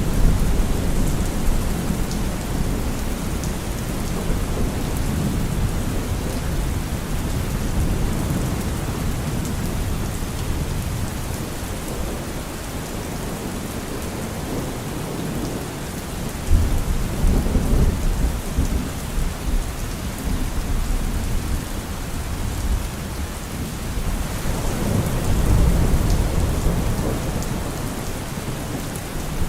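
Steady rain with rolling thunder. There is a rumble at the start, a sharper, louder thunderclap a little past halfway, and another long rumble near the end.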